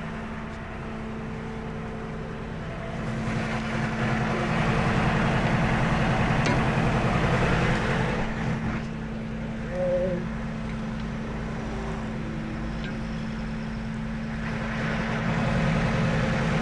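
Tow truck's engine running as the truck reverses slowly, growing louder from about three seconds in and again near the end as it is given throttle, over a steady low hum.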